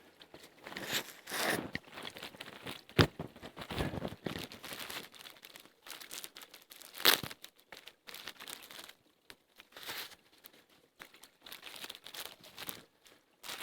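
Dry birch bark and small twigs being handled as tinder and kindling: irregular crinkling, tearing and crunching, with two sharp snaps about three and seven seconds in.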